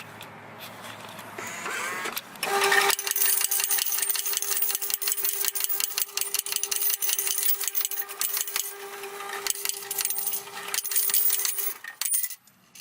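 A small motorised machine running with a steady hum and a rapid rattling. It starts about two and a half seconds in and stops abruptly near the end.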